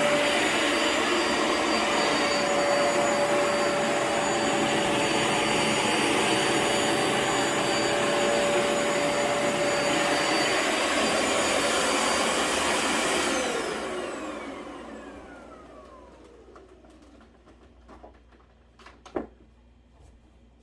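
Vacuum motor running steadily, then switched off about 13 seconds in, its whine falling in pitch as it spins down over a few seconds. A few small clicks and a knock near the end.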